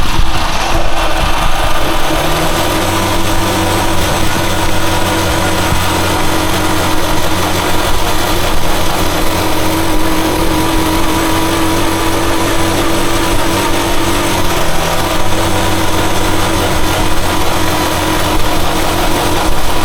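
Rusi Chariot 175 motorcycle engine running at a steady speed, with a slight drop in pitch about 14 seconds in.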